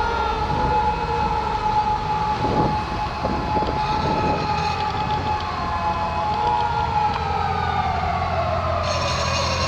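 Vehicle running with a steady whine that slowly falls in pitch over a low rumble, with a few brief knocks a few seconds in.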